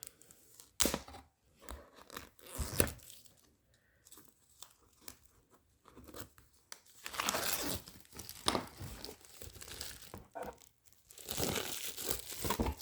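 Plastic packaging being torn open and crinkled by hand: a few sharp clicks, then two longer rustling, crinkling bursts, the second one near the end.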